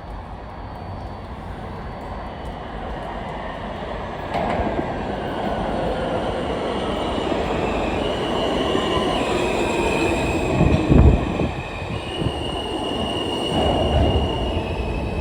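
R160 subway train pulling into the station, getting louder as it comes in. Its motor whine falls in pitch as it brakes, the wheels squeal high, and there is a loud clank about eleven seconds in.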